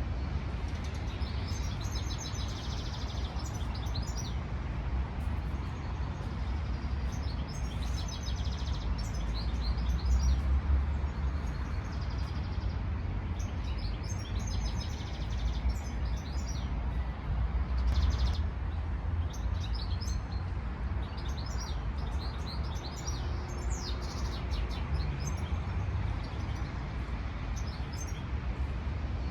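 Small songbirds chirping and singing in short repeated phrases, over a steady low wind rumble that swells in two gusts, about ten seconds in and again near eighteen seconds.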